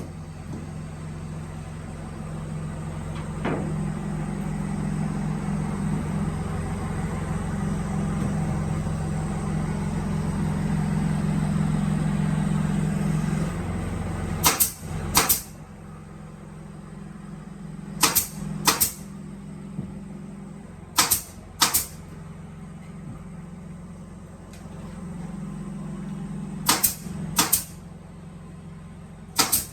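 Woodworking machine motor running with a steady low hum that cuts out about halfway through, followed by pairs of sharp loud clacks every three to four seconds.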